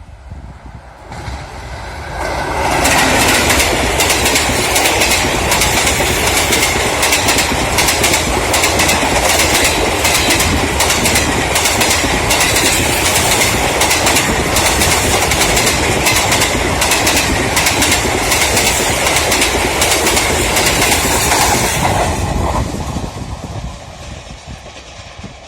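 Passenger train passing at high speed: a loud rush with a rapid clickety-clack of wheels over rail joints. It builds up over the first couple of seconds and fades away over the last few.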